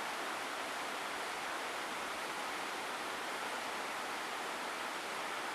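Steady rushing of a mountain creek running over rocks, an even wash of water noise.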